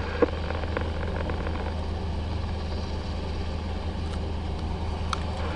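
Engine running at a steady idle, a constant low drone heard from inside the cabin.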